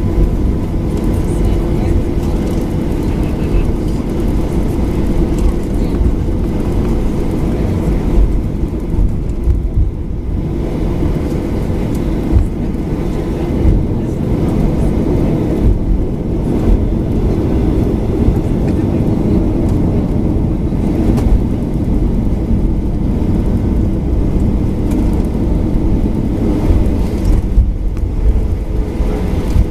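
Cabin noise inside a Boeing 737-800: a loud, steady low rumble from its CFM56-7B jet engines and the airframe, with small uneven jolts. A new tone comes in near the end.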